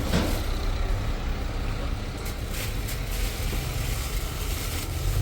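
Steady low rumble of vehicle engine noise under a general background hiss.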